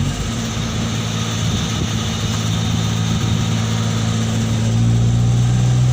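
Car engine running steadily while driving, with a low hum that rises slightly in pitch and loudness near the end.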